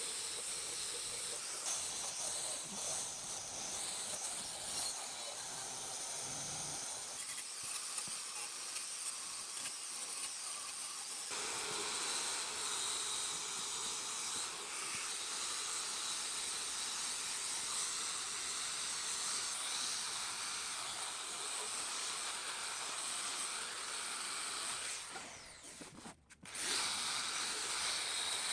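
Steady hissing noise that drops out briefly near the end.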